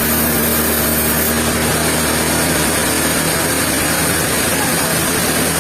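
Sawmill machinery running with a steady mechanical drone. A steady hum in it fades out about a second and a half in.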